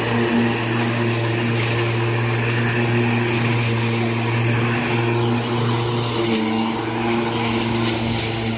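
Ozito ELM-1545 1500 W corded electric lawn mower running steadily while mowing grass: a constant motor-and-blade hum with a few steady tones above it.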